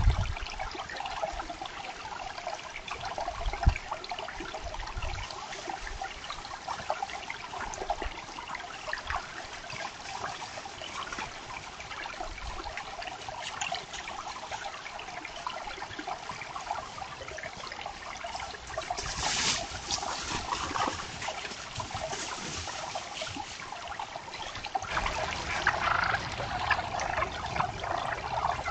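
Creek water running and trickling steadily, swelling briefly about two-thirds of the way in and again near the end.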